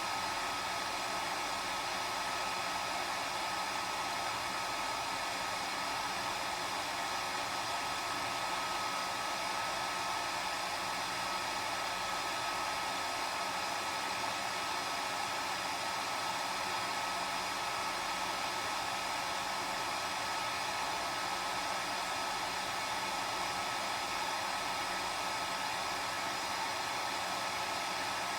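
Hair dryer running steadily, a constant rushing hiss with a thin steady whine above it.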